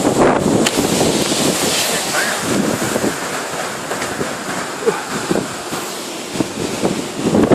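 Storm-force wind gusting: a loud, steady rushing with irregular low buffeting, easing slightly before picking up again near the end.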